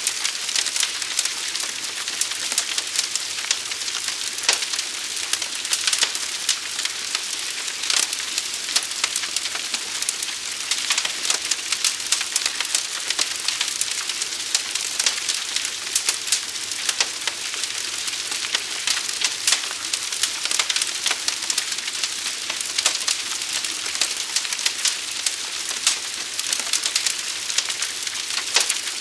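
Forest fire burning: dense, irregular crackles and pops over a steady hiss.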